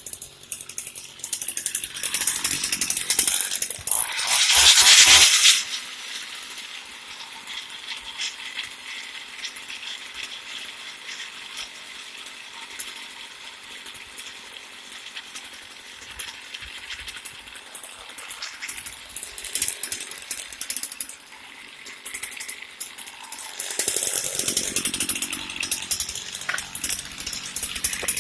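Two-stroke engine of an Echo string trimmer running, now that the no-start fault is fixed. It surges loudly for about a second and a half around four seconds in, runs more quietly and steadily for most of the time, then picks up again near the end.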